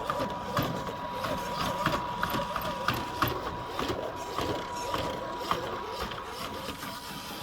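FMS FJ40 RC crawler's electric motor and gears running with a steady thin whine that stops about five seconds in, over many small clicks and ticks as it crawls over the forest floor.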